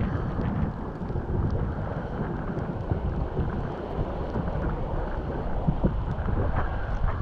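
Wind buffeting the microphone in a steady, gusting rush, with a few faint clicks in the second half.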